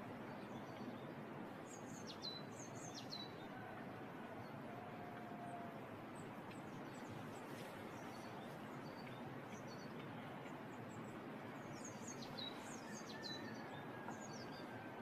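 Small birds chirping in two bursts of quick, high, downward-sliding notes, about two seconds in and again near the end, over a steady rushing background noise.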